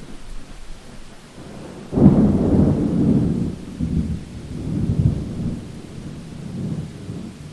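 Thunder over steady rain: a sudden loud clap about two seconds in, then a low rumble that rolls on in several swelling waves.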